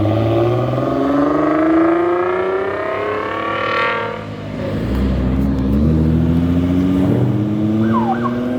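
Car engine accelerating hard as the car pulls away, its pitch climbing steadily for about four seconds. It then drops suddenly at a gear change or lift-off and climbs again more slowly.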